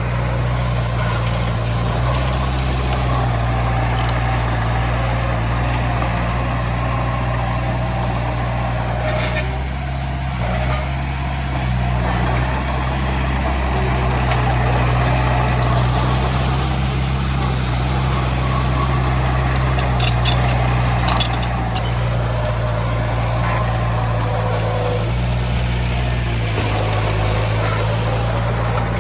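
Diesel engine of heavy earthmoving machinery running steadily under varying load, with intermittent higher metallic squeals and a few sharp clanks.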